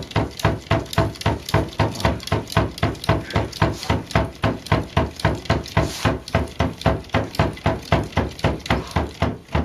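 A cat knocking on a bedside cabinet's door with its paws, a fast, even run of knocks at about four a second, rattling the door to get it opened.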